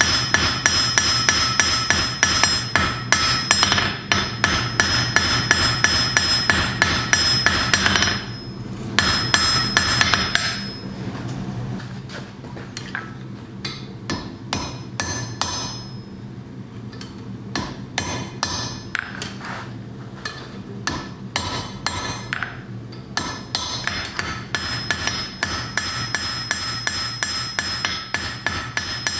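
Hand hammer striking hot iron stock on an anvil in rapid, steady blows, each followed by a ringing anvil tone, while the head of a small Thor's hammer pendant is spread out and shaped. For about twelve seconds in the middle the blows are quieter and ring much less.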